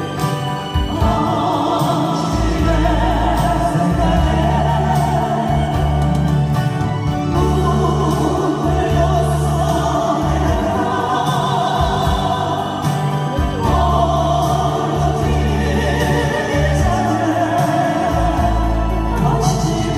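Live band playing a Korean trot ballad: a melody line with heavy vibrato, in phrases of a few seconds, over a steady bass and beat.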